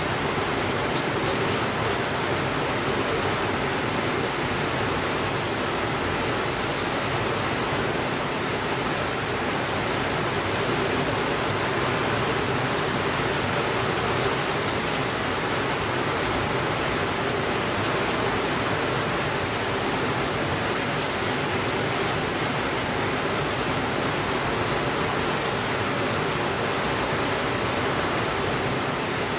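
Steady rainfall, an even hiss that holds at one level without let-up.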